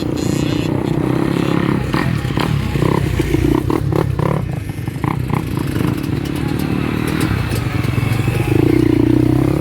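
Motocross motorcycle engines running with a steady low drone, growing louder near the end, with scattered clicks over it.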